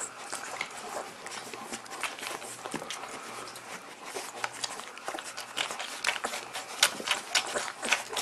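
Puppies moving about, with a rapid irregular run of small clicks and scratches that grows busier in the second half.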